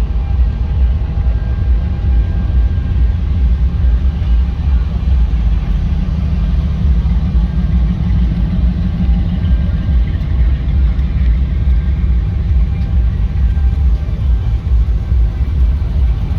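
A vehicle engine running with a steady low rumble, typical of an idling car.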